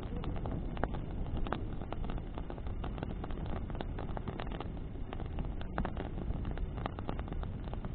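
Bonfire burning with frequent, irregular crackles and pops from the burning wood over a steady low rumble of wind and flame.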